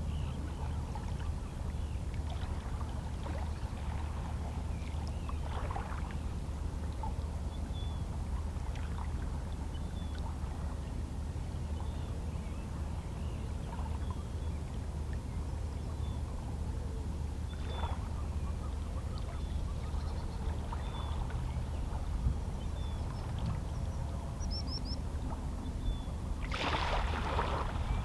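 Calm sea: small waves lapping and splashing against shoreline rocks over a steady low rumble of water, with a larger splash near the end. Faint short seabird calls come now and then.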